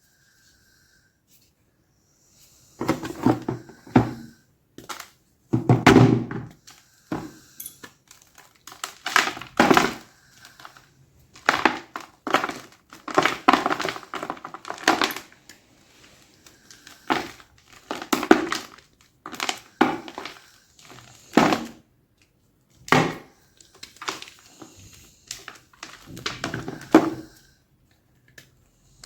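Blocks of gym chalk being crunched: a run of loud, gritty crunches that come in irregular bursts every second or two, starting a couple of seconds in.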